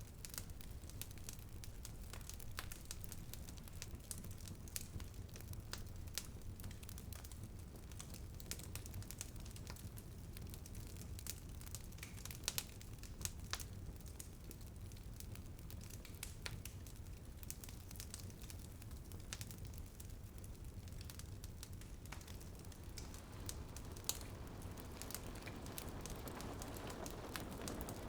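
Wood fire crackling and popping in a fireplace: irregular sharp snaps over a steady low rumble. A soft hiss comes up near the end.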